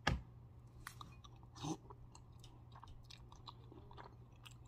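Close mouth sounds of chewing a spoonful of gumbo and rice: small wet clicks and smacks, with a louder one right at the start and another about a second and a half later.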